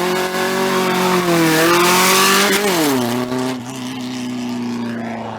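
Car engine revved high and held for about two and a half seconds, with a rising hiss of tire noise near the peak. The revs then drop about three seconds in and it settles to a lower steady drone as the car pulls away.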